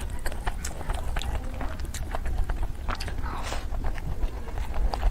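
Close-miked eating sounds of a person chewing a mouthful of rice pulao and mutton curry, with many short, irregular wet clicks and smacks over a low steady hum.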